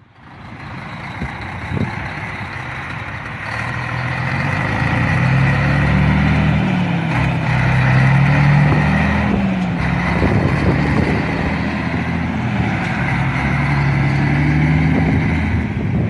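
Scania 113 cab-over truck's straight-six diesel engine running loudly, its pitch rising and falling several times as it is revved, building in loudness over the first few seconds.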